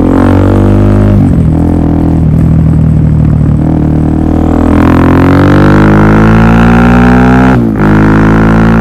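Suzuki DR-Z400SM's single-cylinder four-stroke engine through a Yoshimura full exhaust system, running loud. Its note holds steady, then rises steadily over a few seconds, breaks briefly just before the end and steadies again.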